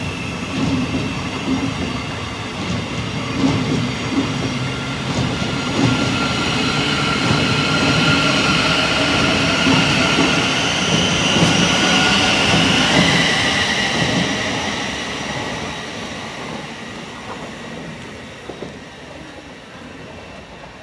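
A train passing on the rails, a steady rush of running noise with several thin high-pitched tones over it. It builds to its loudest around ten to thirteen seconds in, then fades away.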